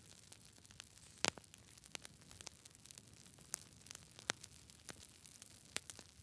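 Wood fire crackling: a low steady hiss with irregular sharp pops and snaps, the loudest about a second in.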